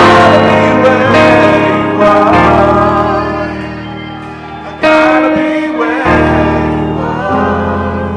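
Loud live worship music: voices singing over sustained instrument chords struck afresh every second or two.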